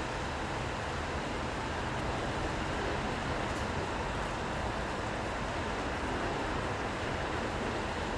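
Steady city ambience in the rain: an even wash of rain and traffic noise with no distinct events.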